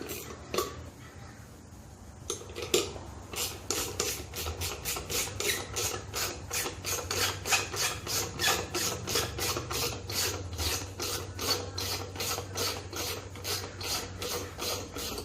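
Hand scraping or rasping in rapid, even strokes, about three or four a second. The strokes start about three seconds in, after a few scattered knocks.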